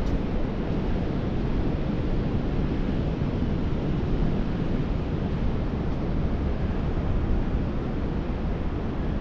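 Steady wind rushing and buffeting over the microphone, a low, even roar without breaks.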